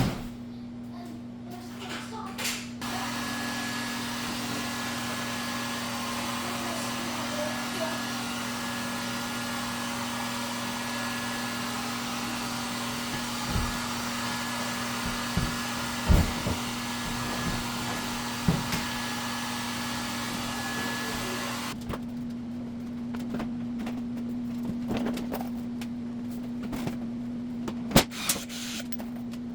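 An electric motor with a steady rush of air runs from a few seconds in and cuts off suddenly about three quarters of the way through. A few short knocks follow, over a steady low hum.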